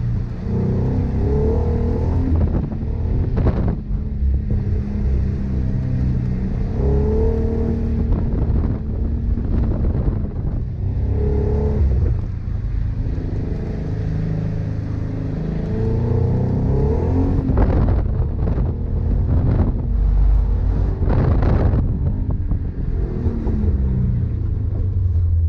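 Subaru BRZ's flat-four engine heard from inside the cabin, revving up and down again and again, its pitch rising and falling as the car is driven hard through corners, with a few brief rushes of noise.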